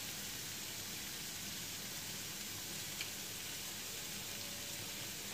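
Straw mushrooms frying in a wok over a lit gas burner: a steady, soft sizzle, with one faint tick about three seconds in.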